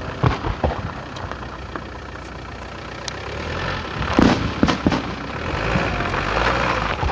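Car engine running with steady low rumble and road or cabin noise, with a few sharp knocks about four seconds in.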